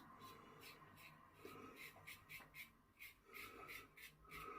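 Faint short scraping strokes, about three a second, of a 1967 Gillette Slim adjustable double-edge safety razor cutting through lathered stubble.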